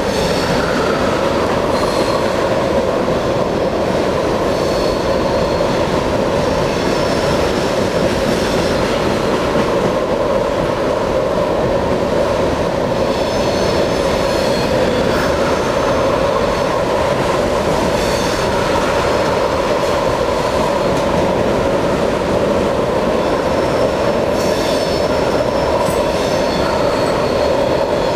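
Freight train of loaded tank cars rolling steadily past, a continuous rumble of steel wheels on the rails. Brief thin high-pitched wheel squeals come and go several times over it.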